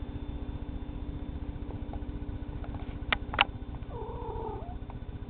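A male cat gives a short, wavering yowl near the end, while mounting a stuffed toy. About a second earlier there are two sharp clicks. A steady low hum runs underneath.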